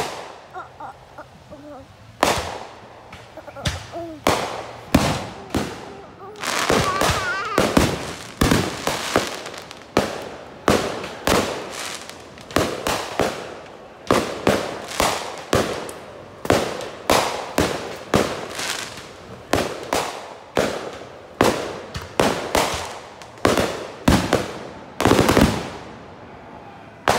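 Aerial firework shells bursting in a rapid barrage: a quick run of sharp bangs, roughly one to two a second, starting about two seconds in. A particularly loud burst comes near the end.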